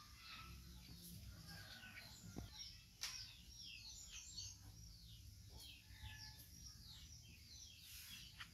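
Faint bird chirping: many short, quickly falling notes, several a second. A single sharp click about three seconds in.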